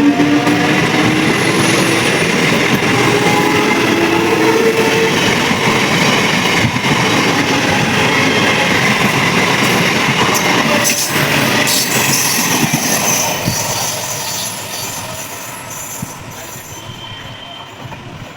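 Indian Railways train running past on the track, wheels clattering over rail joints, with a whine rising in pitch over the first few seconds. The noise fades away steadily over the last few seconds as the train moves off.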